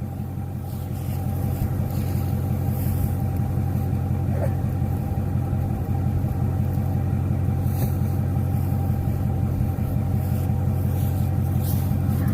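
Vehicle engine running steadily, a constant low drone.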